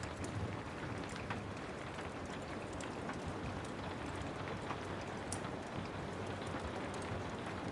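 Steady rain hiss with scattered sharp crackles and pops from a wood fire in a fireplace.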